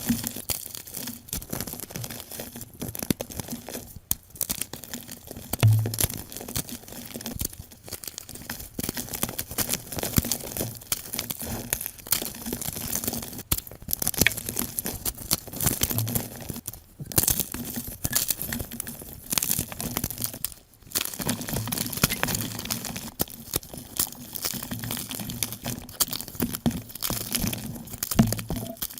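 Blocks of gym chalk being crushed and crumbled, played back sped up: a dense, continuous run of crunching and crackling with a few brief pauses.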